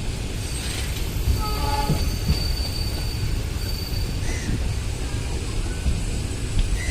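Passenger train running, heard from on board: a steady low rumble of wheels on track, with brief high-pitched wheel squeals, the clearest about one and a half to two seconds in.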